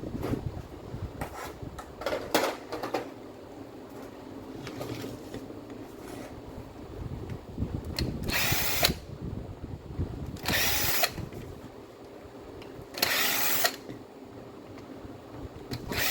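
A power tool run in four short bursts of about a second each, with clicks and knocks from handling tools and parts in between.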